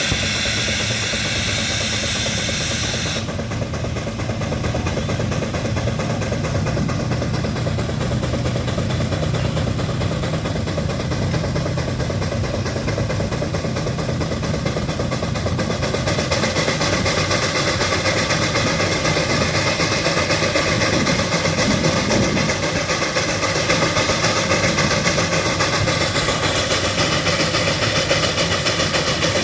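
Russell steam traction engine running steadily under load on a prony brake, with steam hissing. The high hiss drops away about three seconds in.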